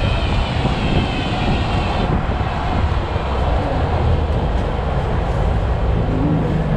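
Loud, steady roar of high-powered car engines, with a low steady hum coming in near the end.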